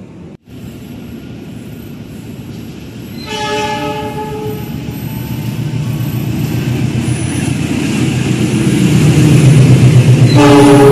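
Diesel-electric locomotive of an express passenger train sounding its horn, one chord of about a second roughly three seconds in, then running in past the platform with its engine and wheels rumbling louder and louder. A second short horn blast comes near the end, at the loudest point.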